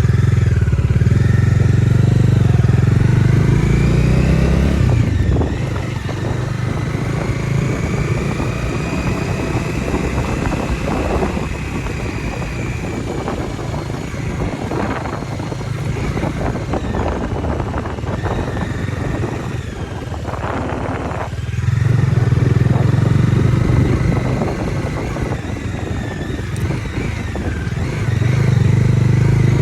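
Bajaj Dominar 250's single-cylinder engine running on the move, louder under throttle for the first few seconds and again about 22 and 28 seconds in, easing off in between.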